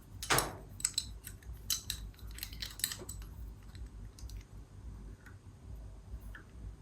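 Light metallic clicks and clinks of small steel parts being handled and set against each other, a quick run of them in the first three seconds, then only a few faint ticks.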